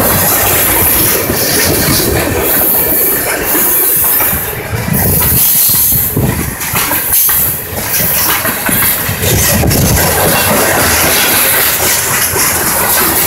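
A freight train's tank cars and covered hopper cars rolling past at close range: a steady, loud rolling noise with a high hiss, dipping briefly a few times midway.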